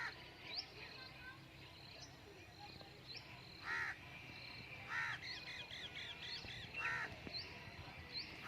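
Birds calling: four short, harsh caw-like calls a second or more apart, over many quick rising chirps from smaller birds, with a fast run of chirps in the middle.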